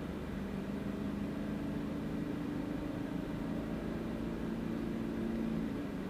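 Car driving along: a steady engine drone with road noise. The engine hum fades near the end.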